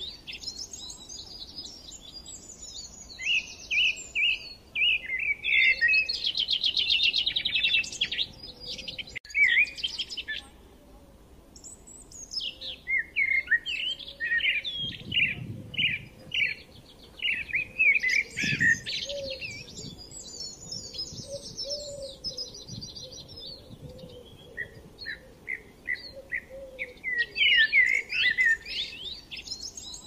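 Several wild birds singing at once: overlapping chirps, quick trills and rapid runs of repeated notes, pausing briefly about a third of the way in. Two soft low rumbles come near the middle.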